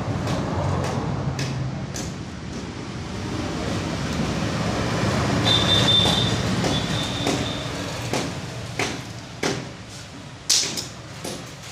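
Hand work on a motorcycle disc brake caliper being reassembled: sharp metal clicks and knocks, the loudest near the end, over a steady background rumble. A brief high squeal comes about halfway through.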